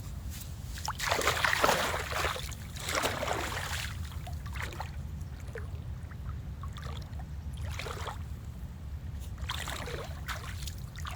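Paddleboard paddle strokes swishing and splashing through the water, several soft washes a few seconds apart, over a steady low rumble.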